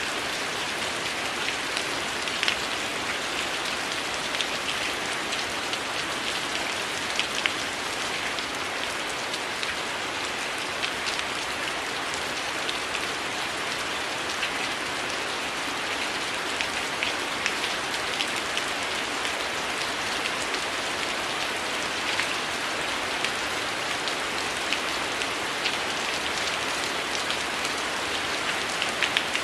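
Heavy rain falling steadily as a dense, even hiss, with scattered sharp ticks every second or two.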